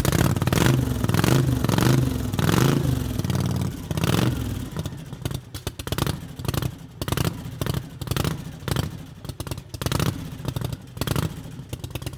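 Motorcycle engine sound revving up and down, then breaking into short, choppy blips of throttle.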